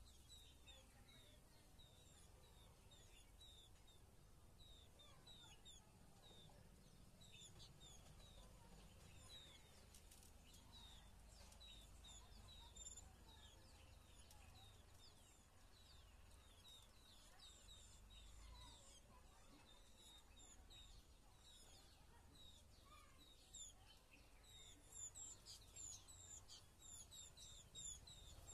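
Faint small-bird chirping outdoors: a steady run of short, repeated chirps several times a second. Busier, higher chirping joins in near the end.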